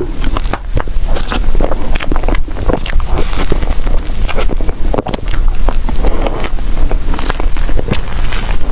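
Close-miked chewing and mouth sounds of someone eating soft desserts: a dense run of small wet clicks and crackles over a steady low rumble.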